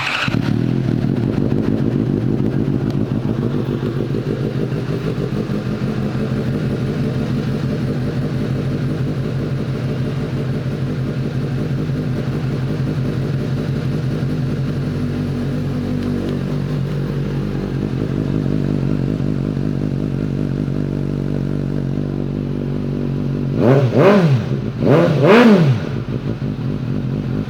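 Suzuki GSX-S750 inline-four with an aftermarket Yoshimura exhaust starting and settling into a steady idle. Near the end the throttle is blipped twice, the revs rising and falling quickly each time, before it drops back to idle.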